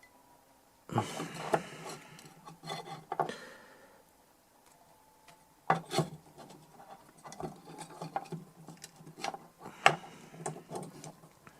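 Scraping, rubbing and sharp clicks of a tool working on the inside of a DI box, in two spells: one starting about a second in, the other about six seconds in.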